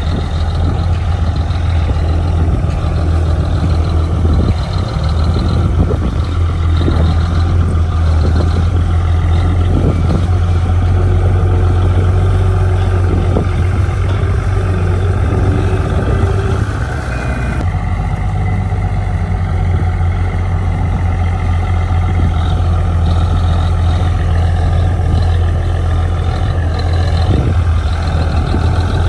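Heavy earth-moving machinery's diesel engine running steadily with a deep drone, with occasional short knocks and clanks. The upper part of the sound changes abruptly about two-thirds of the way through.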